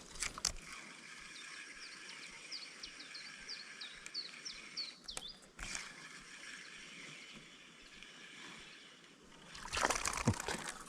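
Shallow forest stream trickling over its bed, with a bird singing a quick run of about a dozen short falling notes a few seconds in. A louder rustling burst comes near the end.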